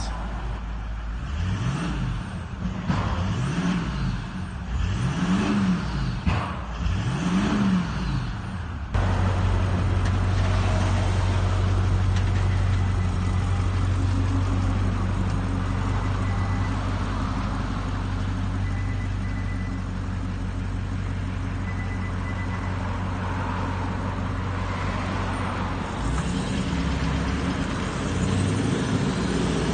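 Toyota 200 series Landcruiser V8 twin-turbo diesel revved four times through a high-flow exhaust with two high-flow cats and a high-flow muffler, each rev rising and falling. About nine seconds in the sound changes abruptly to a steadier, deeper engine note, which rises again near the end.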